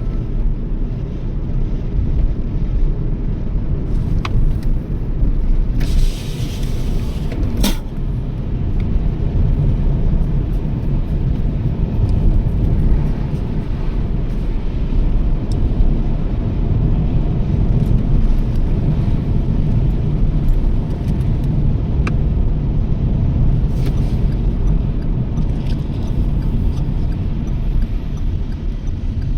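Toyota Yaris driving at speed: a steady low rumble of road and engine noise, with a brief hiss about six seconds in and a few light clicks.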